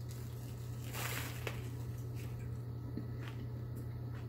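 A bite into a crispy chicken sandwich layered with potato chips: a short crunch about a second in, then chewing with a few faint clicks. A steady low hum sits underneath.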